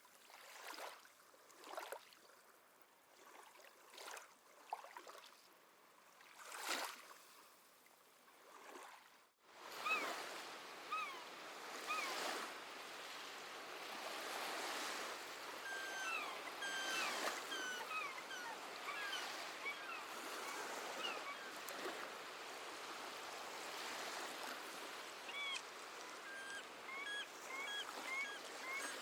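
Small waves washing in as soft swells, then about nine seconds in the sound cuts abruptly to louder, steadier surf. Over the surf come many short, repeated seabird calls, which fall into quick runs of about two calls a second near the end.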